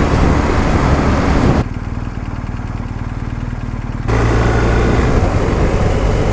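Motorcycle riding noise: wind rush over the engine of a BMW R1250GS Adventure, whose boxer twin is heard as a low, steady hum. For about two and a half seconds in the middle, the wind hiss cuts out abruptly and leaves the engine's low, even pulsing exposed, before the rushing noise returns.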